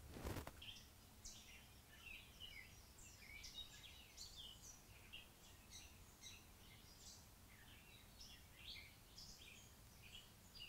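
Faint birdsong drifting in from outside: many quick, high chirps and short trills over quiet room tone, with a soft thump right at the start.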